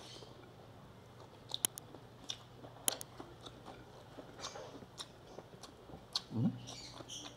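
Close-up mouth sounds of someone chewing and biting sautéed bamboo shoots with rice, with scattered sharp wet clicks and smacks. There is a short rising vocal sound near the end.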